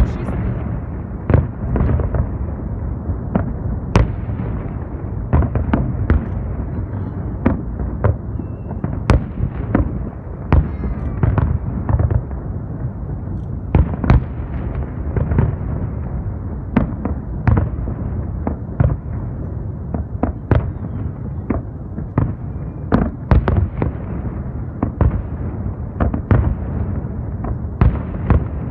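Aerial fireworks display: a continuous rumble of shell bursts with frequent sharp bangs and pops at irregular intervals, several a second at times.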